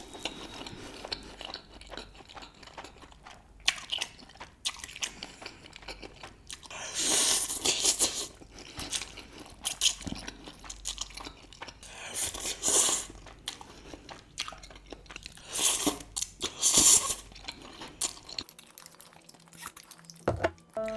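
Close-miked eating of Samyang 2x Spicy Buldak noodles with chopsticks: wet chewing, broken by several loud slurps, the longest about seven seconds in.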